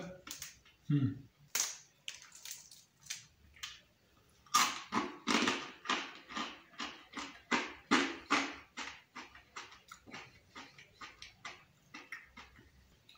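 A person chewing a bite of pizza with a well-baked crust close to the microphone: crisp, wet mouth crunches at about two to three a second, starting a few seconds in and growing fainter near the end.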